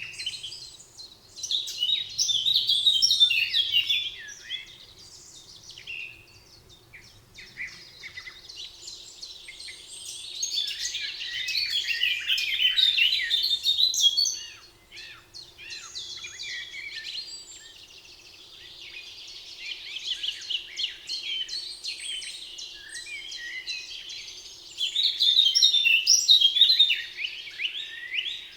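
Several songbirds singing and chirping in a forest chorus, swelling in three louder bouts, over a faint steady hum.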